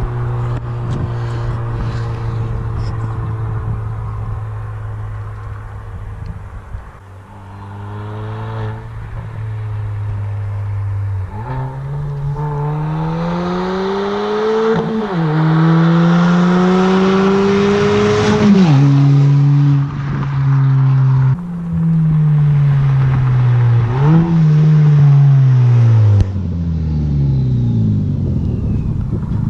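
2020 Kia Forte GT's turbocharged four-cylinder engine running with its resonator and muffler removed, straight-piped after the catalytic converter. It holds a steady note at first. From about twelve seconds in it revs up through the gears, with the pitch dropping sharply at two gear changes. Near the end the engine note falls away as the car slows.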